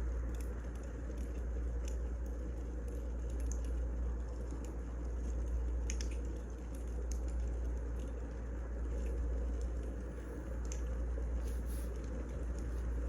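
Wood fire burning: a steady low rumble with scattered small, sharp pops and crackles at irregular moments.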